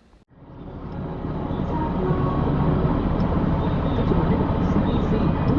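Steady rumbling road noise of a truck driving on the highway, fading in over the first second or so.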